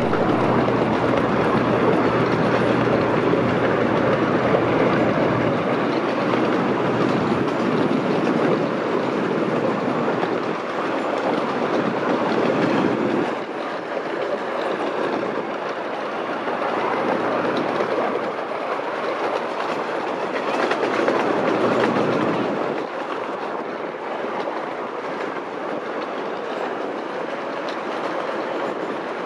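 Miniature park train rolling along its track, heard from an open riding car: a steady rumble and clatter of wheels on rail, a little louder in the first half, easing about halfway through and swelling again later.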